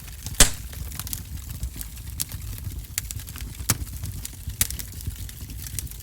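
Wood fire in a wood-burning stove crackling, with scattered sharp pops over a low rumble; the loudest pop comes about half a second in.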